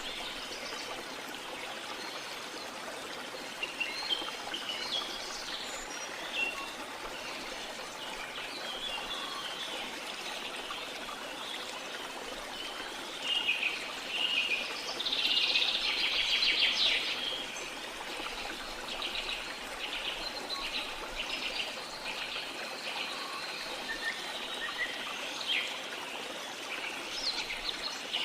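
Steady rush of running water with birds chirping and calling over it. About halfway through comes a louder, dense burst of bird calls, followed by a few seconds of rapid repeated chirping.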